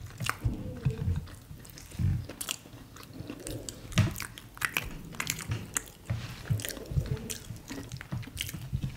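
Close-miked chewing and lip smacking of two people eating fried plantain, bread and beans, with many short mouth clicks.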